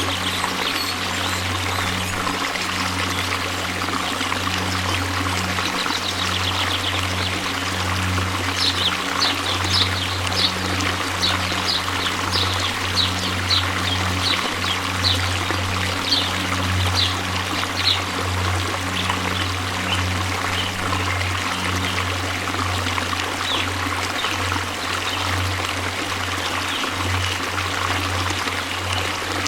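Waterfall rushing steadily, with a deep low rumble under the spray. From about nine seconds in to about eighteen, a run of about a dozen short high chirps sounds over the water.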